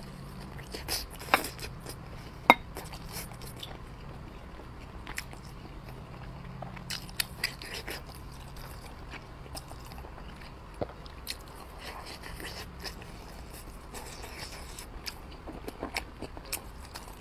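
Close-miked biting and chewing of soft, saucy braised wrapped pork rolls, with scattered sharp wet mouth clicks and smacks, two louder ones in the first few seconds.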